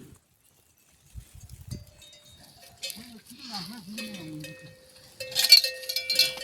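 A metal bell ringing and clanking, louder and busier in the last second or so, with a short wavering call about three seconds in.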